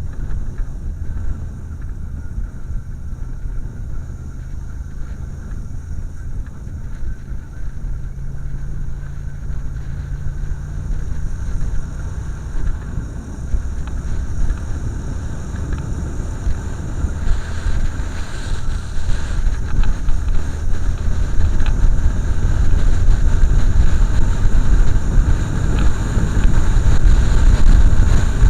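Motorcycle engine running while riding, under heavy wind rumble on the microphone. The engine note climbs slowly through the first part, and the wind noise grows louder over the last third.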